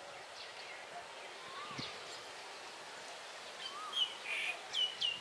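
Birds chirping over a steady outdoor background hiss: a few faint calls, then a run of louder, sharp, down-sliding chirps in the last second and a half.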